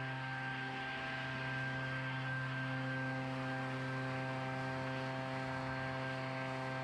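Small gas engine of lawn equipment running steadily at a constant speed: an even, unchanging drone with a hiss over it.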